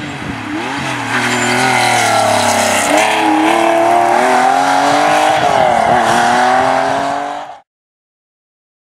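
Rally car engine at high revs as the car approaches and passes, its pitch dropping briefly twice before climbing again. The sound cuts off suddenly near the end.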